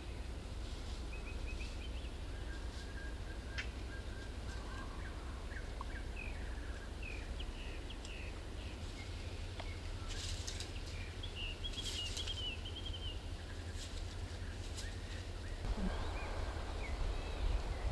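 Wild songbirds giving short, scattered chirps and a brief trill about twelve seconds in, over a steady low rumble of outdoor background noise.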